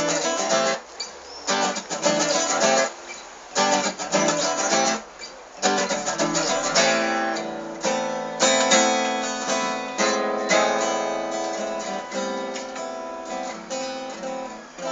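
Acoustic guitar played as an instrumental break in a song, with no singing. For about the first six seconds it plays short, clipped chord strokes with brief gaps between them; after that the chords are strummed and left ringing.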